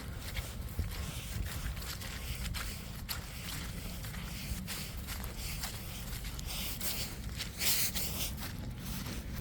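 Footsteps of a person walking outdoors, with a steady low rumble on the microphone and a brief louder rustling hiss about eight seconds in.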